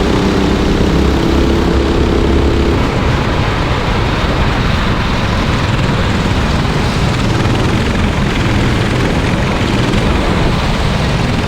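Racing kart engine running hard on track, a loud, steady buzz. Its pitched whine is clear for the first few seconds, then blends into an even rushing noise.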